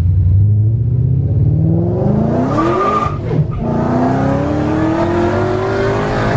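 Ford Mustang Shelby GT500's supercharged V8, heard from inside the cabin, accelerating. The revs climb, drop at a gear change about three seconds in, then climb again.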